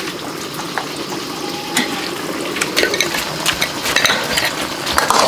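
Water running and splashing, with scattered light clicks and knocks.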